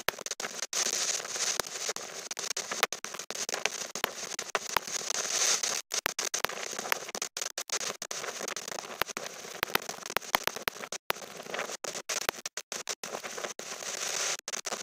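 Wind buffeting the microphone in a gale, heard as a thin, crackling noise with no bass. The sound keeps breaking up with many clicks and brief dropouts to silence.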